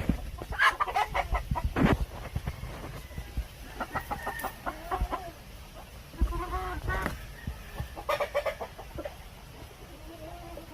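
Chickens clucking, with short calls coming in repeated bursts every second or two.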